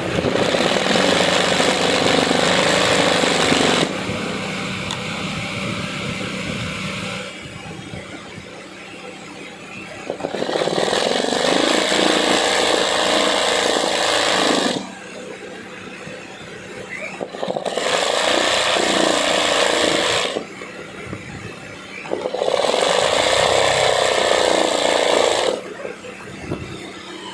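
Sewing machine stitching embroidery in four runs of a few seconds each, its motor speeding up and easing off, with quieter pauses between runs.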